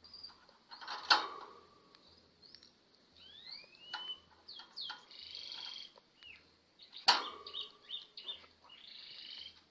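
Lovebird calling in short chirps, rising whistled glides and harsh raspy squawks, with two sharp loud clicks, one about a second in and one about seven seconds in.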